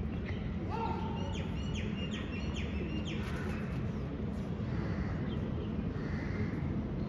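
A bird calling: a quick run of short falling chirps in the first three seconds or so, over a steady low background rumble.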